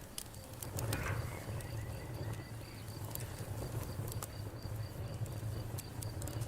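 Wood campfire crackling, with scattered sharp pops over a steady low rumble of the burning fire. A cricket chirps in a steady, even rhythm behind it.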